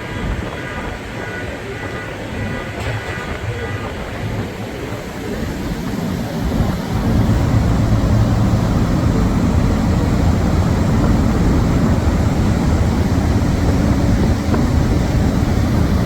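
Steady low rumble of a car ferry under way at speed, growing louder about seven seconds in.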